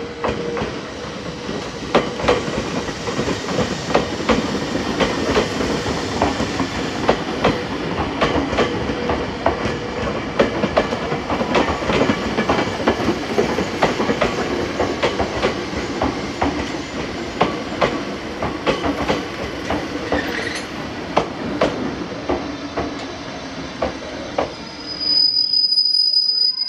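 Meitetsu 6500-series electric train running in over the points, its wheels clacking irregularly over rail joints and crossings above a steady rumble. Near the end a loud, high, steady squeal sets in as the train slows to a stop.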